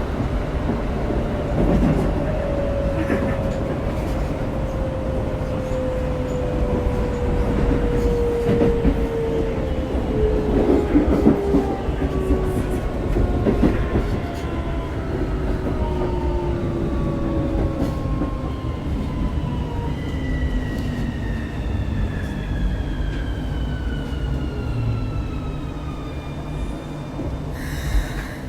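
Keikyu 1000-series car DeHa 1046's Siemens GTO inverter-driven traction motors whining as the train slows under braking on the approach to a station, with several tones gliding steadily downward over the rumble of wheels on track. A short burst of noise comes near the end.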